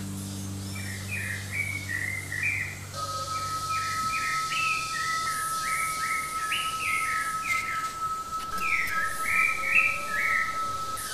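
Small birds chirping in quick, repeated short calls, while a low acoustic guitar chord dies away over the first few seconds. A thin, steady high tone sets in about three seconds in and holds.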